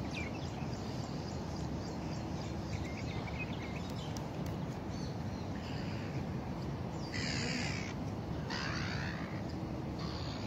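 Harsh bird calls over steady background noise outdoors, the two loudest and longest coming about seven and eight and a half seconds in.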